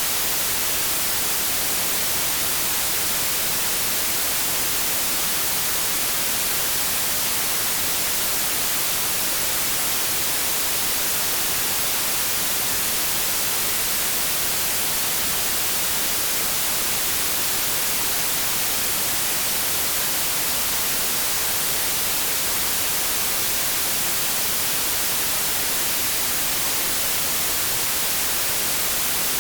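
Steady synthetic white noise: an even, unchanging hiss with most of its energy in the high frequencies.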